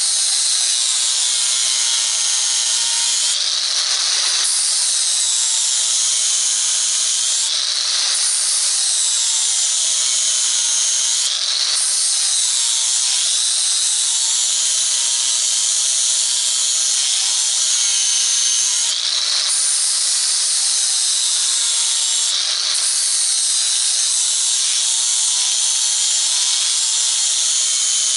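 Power grinder grinding the edge of a hardened-steel mower blade: a steady, loud grinding hiss made in repeated passes a few seconds long, its pitch dipping and rising with each pass as the edge is worked from top to bottom.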